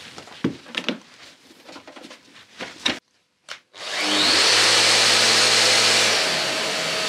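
A few light knocks and clicks, then about four seconds in an electric dust extractor switches on. Its motor spins up with a rising whine and runs steadily with a loud rush of air and a low hum, which eases slightly near the end.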